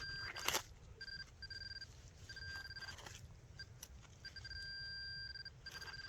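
Handheld metal detector pinpointer beeping, a steady high electronic tone cutting in and out in uneven stretches as the probe moves around a target in the hole. A short scrape of digging in wet soil about half a second in.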